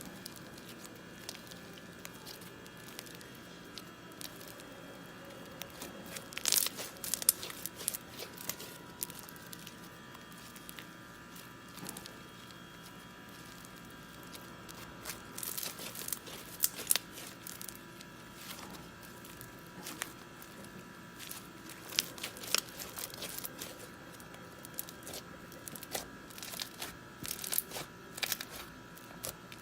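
Intermittent crinkling and rustling, like paper or plastic being handled, in irregular clusters of sharp crackles over a faint steady hum.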